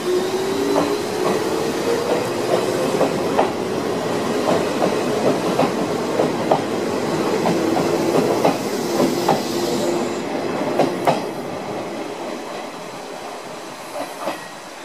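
Izuhakone Railway 7000 series electric train moving out past the platform, its wheels clicking over rail joints in a quick uneven run. A motor whine rises in pitch over the first few seconds, and the sound fades away near the end.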